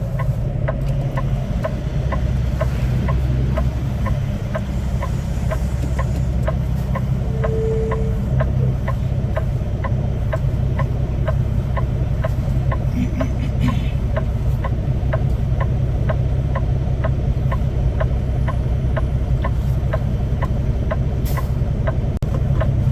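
Semi-truck diesel engine running steadily, heard from inside the cab, with a light, regular ticking at about two ticks a second. A short, brief tone sounds about eight seconds in.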